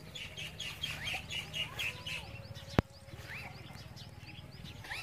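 Small birds chirping: a quick run of short repeated chirps in the first two seconds, then a few single rising call notes, with one sharp click just past the middle.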